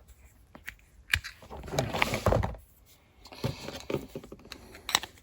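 Scattered light clicks and knocks of small parts being handled, with a little rustling between them.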